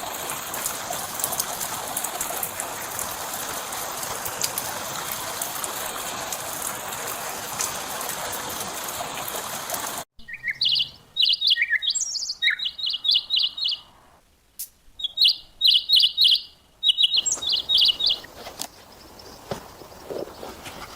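A steady rushing hiss with scattered fine crackles cuts off abruptly about halfway. A small bird then sings several phrases of quick, high, repeated chirps.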